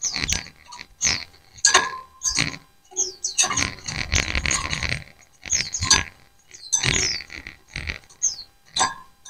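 A flock of white-eyes (pleci) calling over one another in quick irregular bursts, with high chirps that slide downward.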